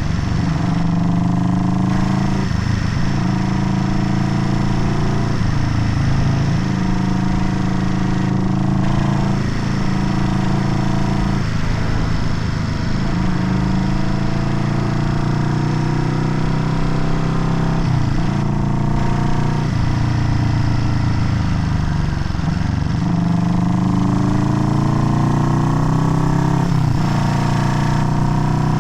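Vintage Honda CB parallel-twin motorcycle engine under way, revving up through the gears: its pitch climbs steadily and drops sharply at each upshift, about seven times.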